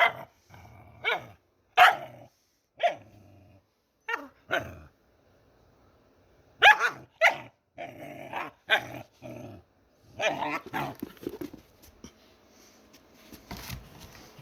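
A dog barking in short, separate barks. There is a pause of about two seconds near the middle, then a quicker, denser run of barks toward the end.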